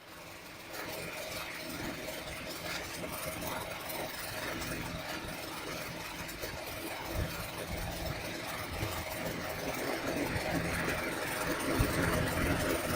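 Steady running machine noise with a low hum, slowly growing louder, with a few short knocks near the end.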